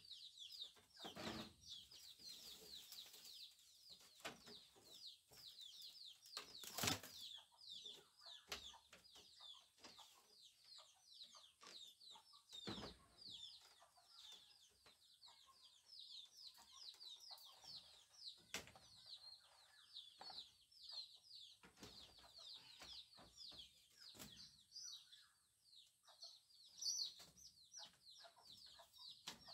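Faint, rapid high chirping of birds, quick falling notes several times a second, with a few sharp knocks, the loudest about seven seconds in.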